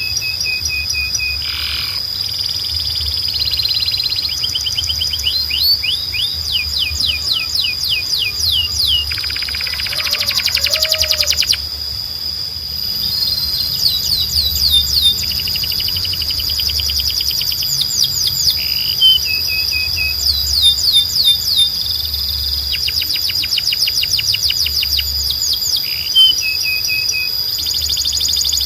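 Canary singing: fast series of short downward-sweeping whistled notes, short held notes, and a rapid buzzy rattle about ten seconds in, over a steady high tone.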